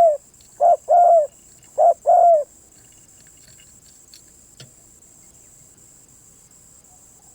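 Spotted dove cooing: the end of one phrase and then two more two-note phrases, each a short coo followed by a longer one, stopping about two and a half seconds in. A steady high insect drone runs underneath.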